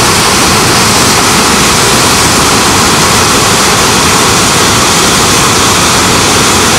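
Loud, steady rush of the Krimml Waterfalls at close range, with heavy snowmelt flow.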